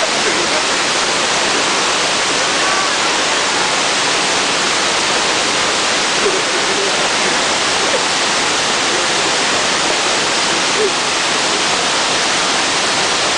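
Shiraito Falls, a wide curtain waterfall of many thin streams, with water rushing in a steady, loud, unbroken roar.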